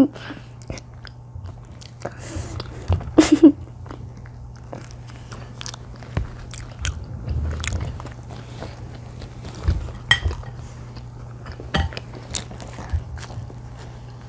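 Close-miked chewing and biting of crunchy pizza, with irregular crunches and mouth clicks. A steady low hum runs underneath.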